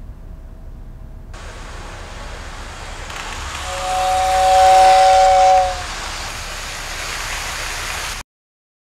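Rushing noise of a train that swells over a few seconds, with a two-note train whistle sounding for about two seconds in the middle, the loudest part; the noise then cuts off abruptly near the end.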